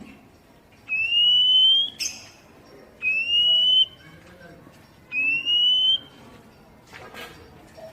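Oriental magpie-robin (kacer poci) giving its basic call: three long, pure whistled notes, each rising slightly over about a second, spaced roughly two seconds apart.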